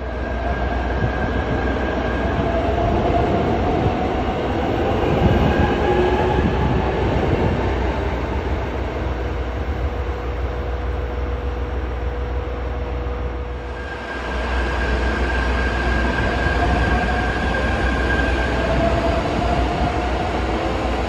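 Electric train running at a station platform: a constant rumble of wheels on rail with a motor whine that rises in pitch over the first several seconds. About 14 seconds in the sound changes abruptly to another train's running noise and whine.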